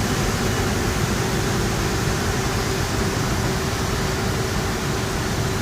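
Boeing 757 aircraft noise: a steady roar of engines and airflow with a low rumble and a faint steady hum.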